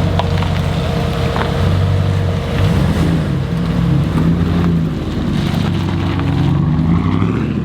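Dodge Ram SRT-10's 8.3-litre V10 running through a freshly installed aftermarket exhaust with quad tips: a steady low rumble whose pitch shifts a little a few times. The exhaust sounds healthy.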